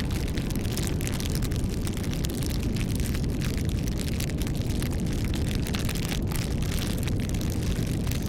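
Bonfire burning: frequent, irregular sharp crackles and pops over a steady low rumble of flames.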